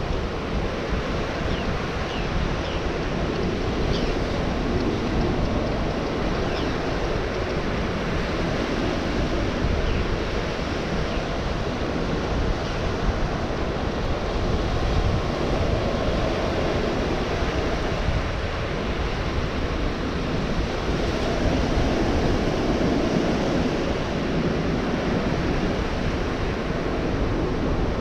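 Ocean surf breaking on a beach: a continuous wash of waves that swells and eases every few seconds, with a deep wind rumble on the microphone.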